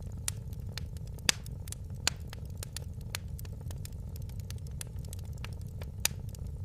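Wood fire in a fireplace crackling: frequent sharp pops and snaps over a steady low rush of the flames, with the loudest snaps about a second in, at two seconds and near the end.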